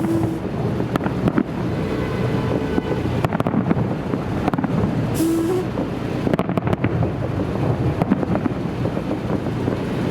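Fireworks salute going off: a dense run of booms and sharp bangs over a constant rumble, with wind on the microphone.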